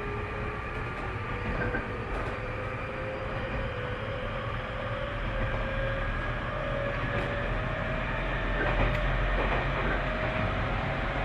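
Tobu 30000 series electric train heard from inside the car: running noise with a motor whine rising slowly in pitch as the train gathers speed, and a few faint clicks from the rails.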